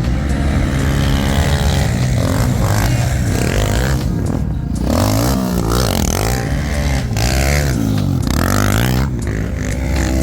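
Quad (ATV) engine under way off-road, revving up and down several times as the throttle is worked, with brief drops in revs about four and nine seconds in.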